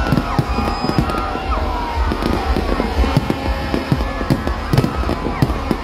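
Aerial fireworks display: shells bursting in rapid, irregular bangs and crackles, with a large crowd's voices beneath.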